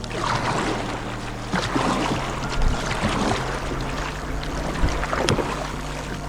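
Kayak paddle strokes splashing and dipping into calm sea water, roughly once a second, over a background of sea and wind noise.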